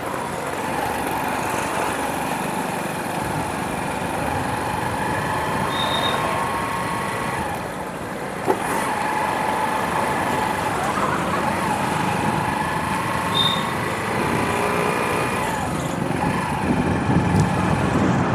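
Motorbike engine running at a steady riding speed, with wind and road noise. A single sharp click about halfway through.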